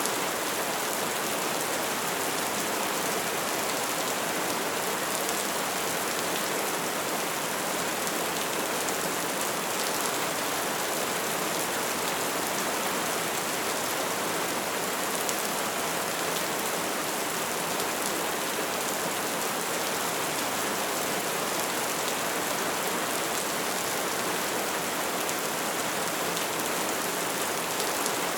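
Open fire burning with a steady hiss and many small crackles and pops.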